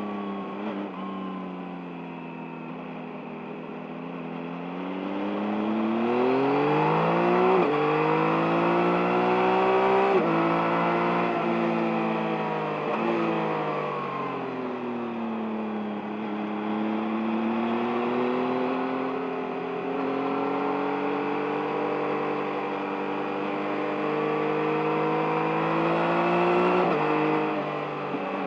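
A 2023 Yamaha MT-09's 890 cc inline-three engine pulling hard through the gears on the road. The revs climb, drop sharply at upshifts about a third of the way in, fall away as the throttle eases, then climb steadily again to another shift near the end, under a steady rush of wind noise.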